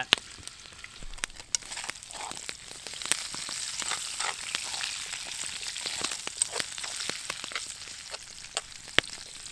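Potatoes frying in oil in a frying pan over a hot campfire: a steady sizzle with frequent sharp little pops and crackles.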